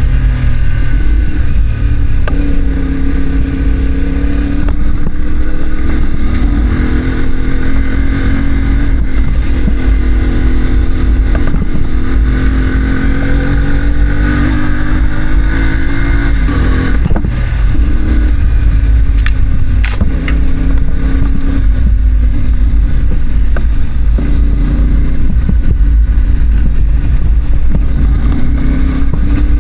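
Parallel-twin adventure motorcycle engine under hard throttle on a dirt road, its pitch climbing and dropping again and again through the gears, over a steady low rumble of wind on the microphone.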